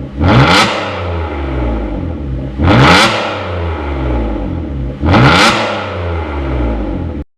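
Kia K7 Premier 3.0 LPI V6 with a custom dual variable-valve exhaust, revved three times about 2.5 seconds apart. Each quick rise and fall in pitch falls back to idle, and the sound cuts off suddenly near the end.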